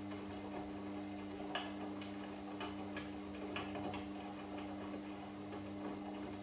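Washing machine running with a steady motor hum as the drum turns, and irregular light clicks and taps from inside the drum.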